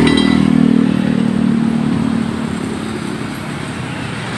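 A motor vehicle engine running close by, loudest at the start, then falling in pitch and fading over about two seconds, as a vehicle does when it passes and moves away.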